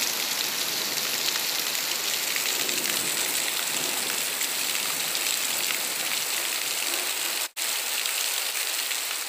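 Heavy rain falling steadily, a dense, even hiss of rain on roofs and street. The sound drops out for a split second about seven and a half seconds in.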